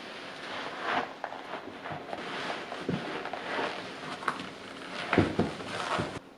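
Scattered soft knocks, clicks and rustles over a steady hiss, like objects being handled, with a cluster of louder knocks about five seconds in; the sound cuts off abruptly near the end.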